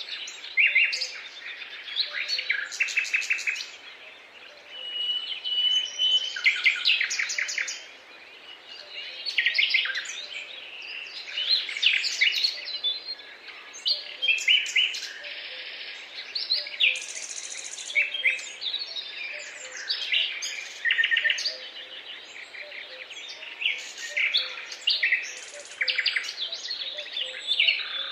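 A chorus of songbirds singing: many overlapping short chirps and rapid trills, with one brief held whistle about five seconds in.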